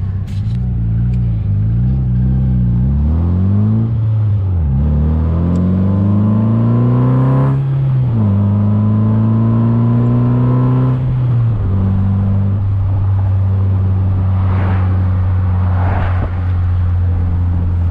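Rover K-series four-cylinder engine in an MG Midget pulling away and accelerating through the gears. Its note rises twice, with a sharp drop at each gear change about four and a half and eight seconds in, holds steady, then falls to a lower, even cruising note about eleven and a half seconds in.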